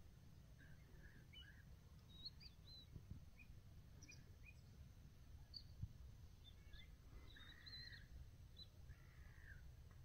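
Faint, scattered short bird calls and chirps, some rising or falling, with a slightly longer call cluster about three-quarters of the way through, over a steady low rumble.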